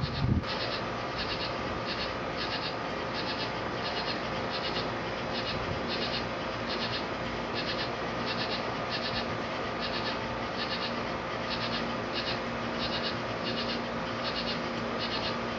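An insect chirping in short trilled bursts, about one and a half a second, over a steady hiss.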